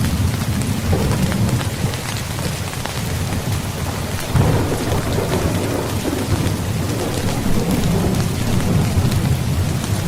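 Heavy rain falling steadily under rolling thunder. A fresh thunder rumble breaks in about four seconds in and rolls on for several seconds.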